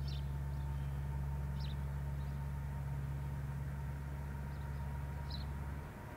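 A train running with a steady low hum that drops away near the end, with a few faint short high chirps over it.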